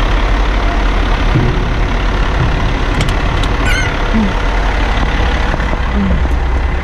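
Western Star eight-wheeler tipper truck's diesel engine idling steadily.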